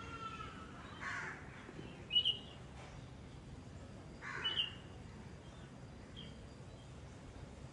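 Birds calling: a short high chirp repeating about every two seconds, and two harsher, noisier calls, one about a second in and one just past the middle.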